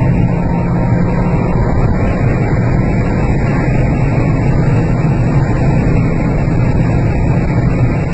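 A car's engine and road noise droning steadily, with no rise or fall in pitch.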